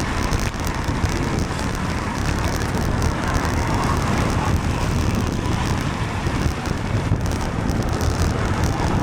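Steady rush of wind on the microphone of a moving bicycle, mixed with wet road and car traffic noise, riding in the rain.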